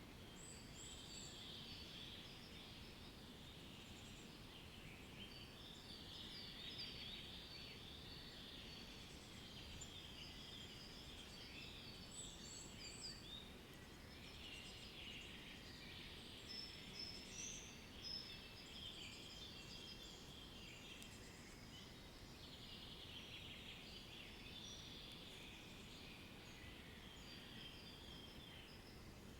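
Faint chorus of many small birds chirping and trilling, overlapping throughout, over a steady low background hiss.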